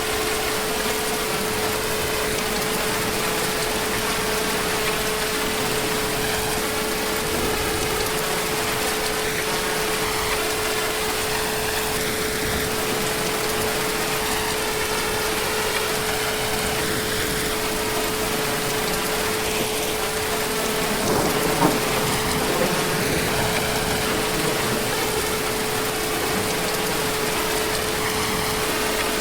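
Heavy rain falling steadily, with a faint steady humming tone underneath.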